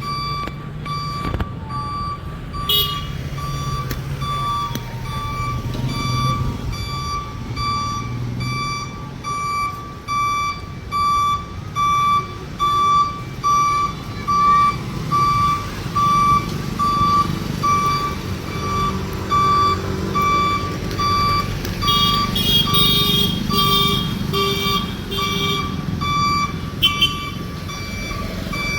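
Heavy truck reversing, its reverse alarm beeping about once a second over the diesel engine running.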